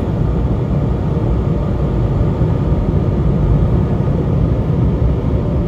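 Steady, loud rush of air from an automatic car wash's drying blowers, heard from inside the car.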